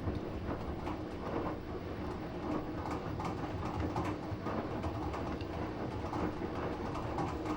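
Samsung WF9904RWE direct-drive washing machine in its main wash: the drum turning, with laundry and water sloshing in irregular swishes over a faint steady tone.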